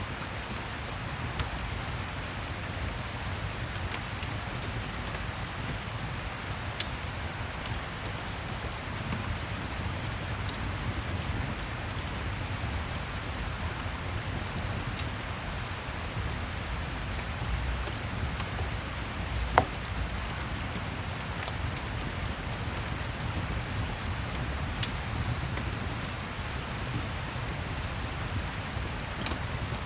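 Steady rain with a low rumble underneath, and a few sharp isolated pops of a crackling fireplace, the loudest about two-thirds of the way through.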